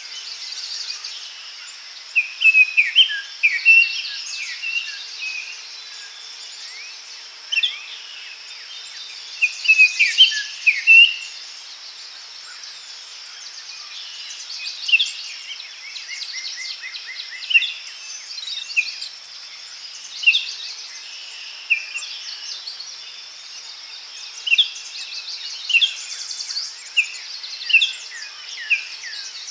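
Daytime forest ambience: several songbirds chirping and whistling in short phrases, one giving a quick trill of repeated notes, over a steady high insect hum.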